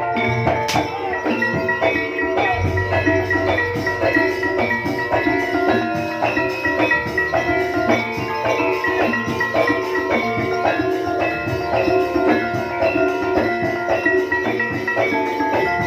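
Live jaranan music from a gamelan-style ensemble: tuned metal percussion plays quick, repeating notes over drums in a steady, continuous rhythm.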